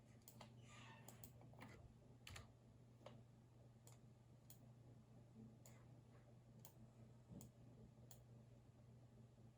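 Faint, scattered clicks of a computer keyboard and mouse, about a dozen spaced irregularly, with a brief soft rustle about a second in. A steady low hum runs underneath.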